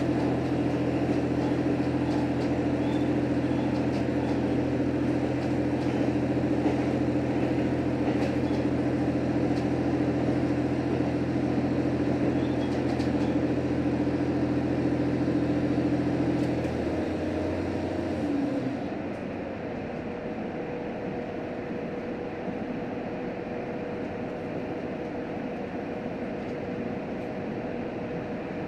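Inside a JR Hokkaido H100 diesel-electric railcar under way: a steady diesel engine drone over wheel and rail noise. About two-thirds of the way through, the engine note drops away and the car rolls on more quietly with a faint steady whine.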